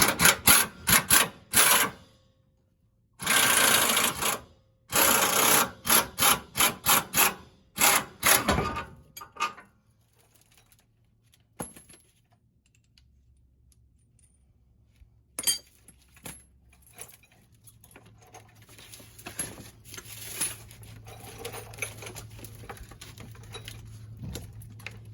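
Impact wrench working a lower control arm bolt loose: a run of short trigger bursts, one longer burst of about a second and a half, then more short bursts over the first nine seconds. After that, a few light metallic clicks and a faint low hum.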